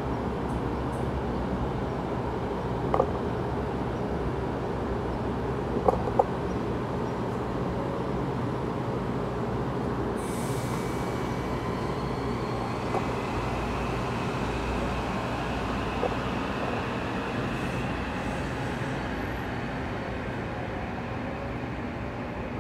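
Metro-North M8 electric multiple-unit train pulling out of the station past the platform, a steady rolling rumble with a few sharp knocks early on. About halfway through a faint whine rises in pitch, then holds as the train draws away.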